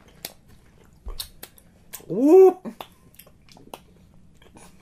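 Mouths chewing sour chewy candies, with scattered small wet clicks and smacks; about two seconds in, one loud, short "whoop" that rises and falls in pitch, a reaction to the intensely sour coating.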